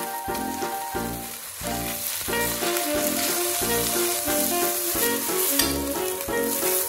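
Vegetables sizzling as they are stir-fried in a nonstick pan over high heat, under background music with a steady beat.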